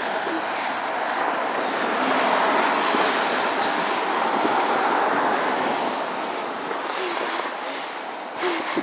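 Blizzard wind blowing, a steady rushing noise that swells a couple of seconds in and eases gradually toward the end.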